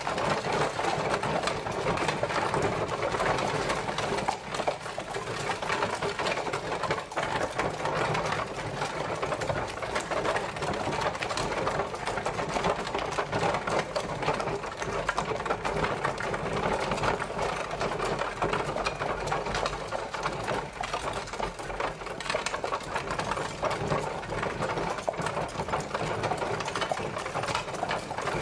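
Horse-drawn carriage rolling along, a steady dense rattle and clatter of its wheels and bodywork that runs on without a break.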